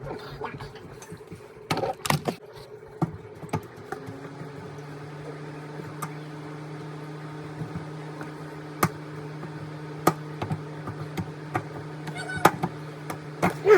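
A steady machine hum starts about four seconds in, with scattered knocks and clicks.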